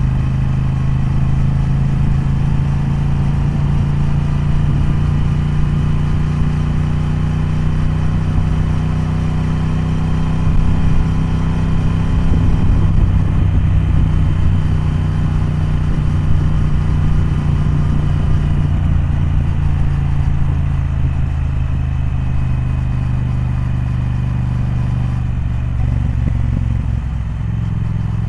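Triumph Speed Twin parallel-twin motorcycle engine and exhaust running steadily, its note drifting a little in pitch, with a rougher, louder stretch about halfway through.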